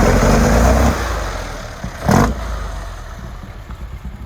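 A car engine running loudly, then fading away as the car moves off, with one short sharp burst about two seconds in.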